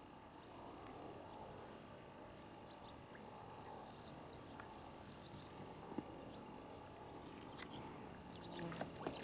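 Faint outdoor background with a few soft, short, high chirps in small groups from about three and a half seconds in, a single click near six seconds, and more clicks and chirps near the end.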